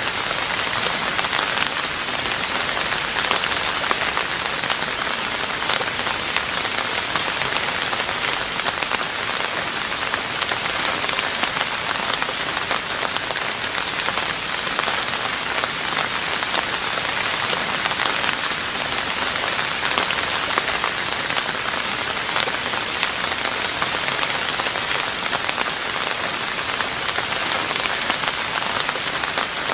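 Steady rain falling on a roof: a dense, even patter of drops that neither builds nor eases.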